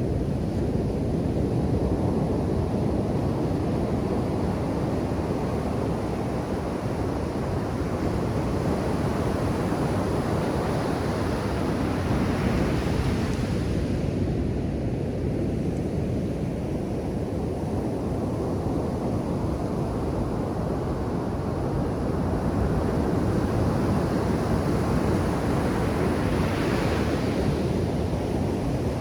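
Ocean surf on a beach: a continuous low wash of waves, with two waves breaking and hissing up higher, about twelve seconds in and again near the end.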